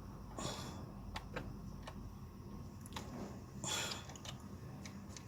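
Hands working on plastic parts in a car's engine bay: scattered small clicks and two short rustles.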